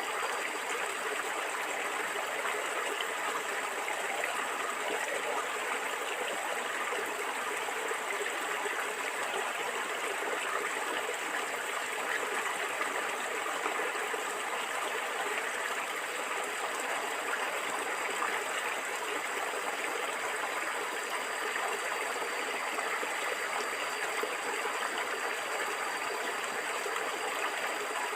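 A stream of water flowing and gurgling steadily.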